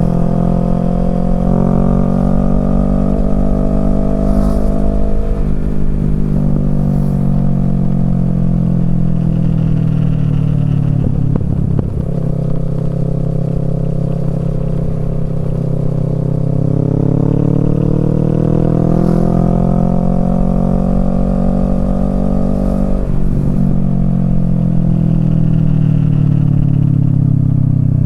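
Kawasaki Z650's parallel-twin engine through a Yoshimura Alpha exhaust, ridden hard: the pitch climbs steadily, then drops sharply three times as the throttle is lifted or a gear is changed, before rising again.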